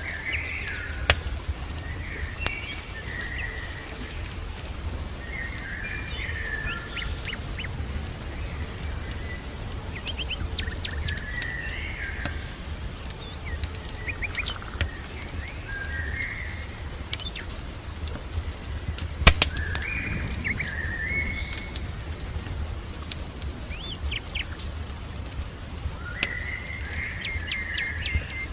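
Songbirds singing short chirping phrases every couple of seconds over a low steady rumble, with scattered sharp pops from a crackling wood fire, one louder pop about two-thirds of the way through.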